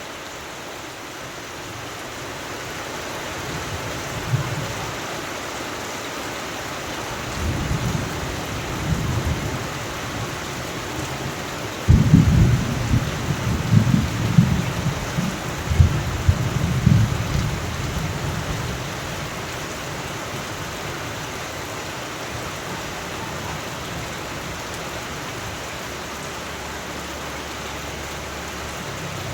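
Steady rain with thunder rumbling low. A sudden loud thunderclap near the middle rolls on for several seconds before fading back under the rain.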